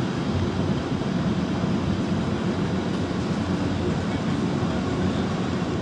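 Tokyu Toyoko Line electric commuter train running: a steady low rumble of wheels on the rails and the running gear, with no breaks or changes.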